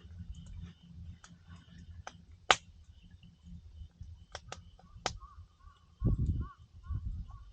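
Wood campfire crackling, with sharp pops over a low rumble; the loudest pop comes about two and a half seconds in. Over the second half an animal gives a rapid run of short chirps, and a brief low rumble comes about six seconds in.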